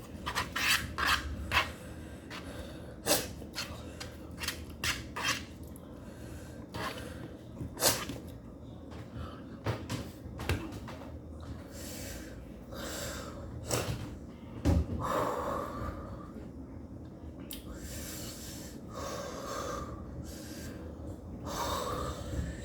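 A person eating noodles: a quick run of sharp clicks and taps in the first half, then longer noisy stretches of slurping or breathing.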